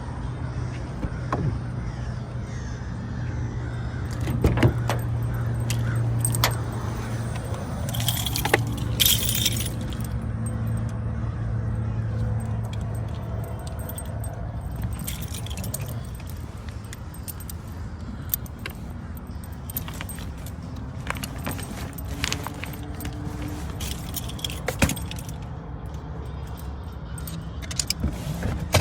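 Keys jangling, with small objects clinking and rustling, inside a car. A low steady hum runs beneath and stops about halfway through.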